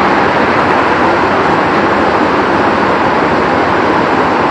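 Very heavy rain pouring down: a loud, steady, even hiss of falling water.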